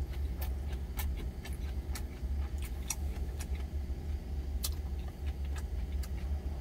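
Chewing a mouthful of pork jowl and shredded green onion, heard as irregular crisp clicks about every half second, over the steady low hum of the truck's idling engine.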